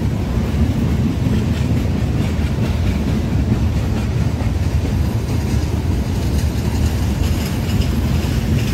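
Train rolling past close by: a loud, steady rumble of the rail cars on the track.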